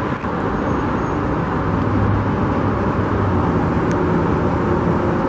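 Steady freeway traffic noise, with a vehicle engine's low hum rising out of it around the middle.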